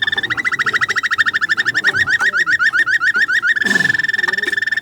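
Roller canary singing: a held, pure note, then a fast run of rapidly repeated notes at about nine a second, and about three and a half seconds in a long held note again.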